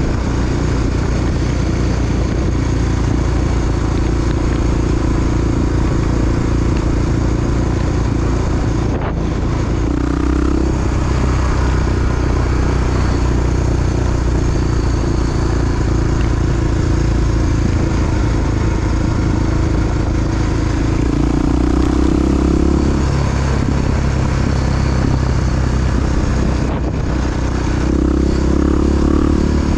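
Big single-cylinder four-stroke Honda XR dual-sport motorcycle engine running continuously while riding, mostly at a steady speed, with its note shifting a few times as the revs change.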